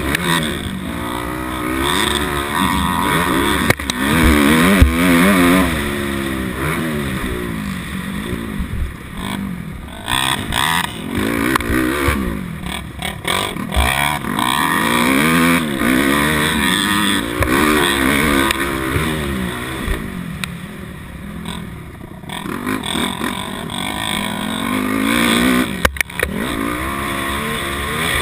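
A 250cc dirt bike engine being ridden hard: its pitch climbs and drops again and again as the throttle is opened and closed.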